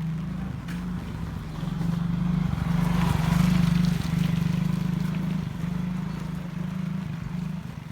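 A motor vehicle's engine runs close by, getting louder to a peak about three and a half seconds in and then easing off, as if passing. Rain hisses faintly underneath.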